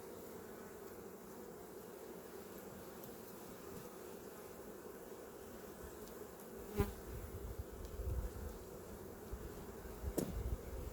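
Honeybees buzzing steadily around an open hive after being smoked. Two sharp knocks come in the second half.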